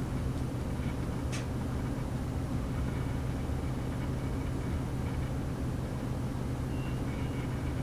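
Interior running noise of a Class 185 diesel multiple unit under way: a steady low hum of diesel engine and wheels on rail. There is a single sharp click about a second and a half in, and faint high whistling tones near the end.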